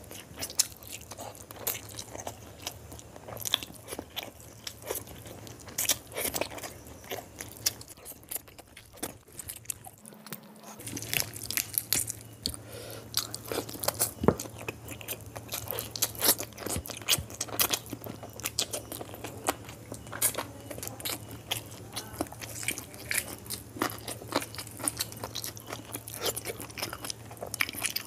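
Close-up eating sounds of a man chewing and biting a meal of rice, chicken curry and boiled quail eggs, with wet mouth clicks and smacks in quick, irregular succession.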